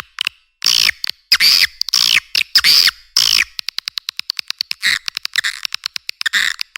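Swiftlet lure-call recording: a string of loud, harsh chirping calls, then a fast train of sharp clicks at about ten a second, broken by two more chirps near the end. It is the kind of call track played to draw swiftlets into nesting houses.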